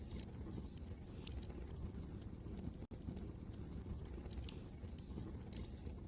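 Wood fire crackling, with irregular sharp pops and snaps over a steady low rumble of wind. The sound cuts out for an instant about three seconds in.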